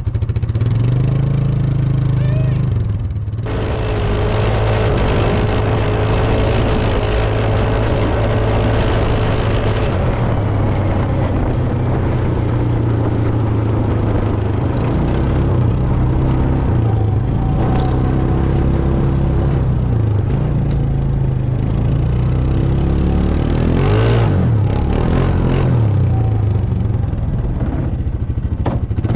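ATV (four-wheeler) engine running and revving, its pitch rising and falling as the throttle is worked, with a brief let-off about three seconds in.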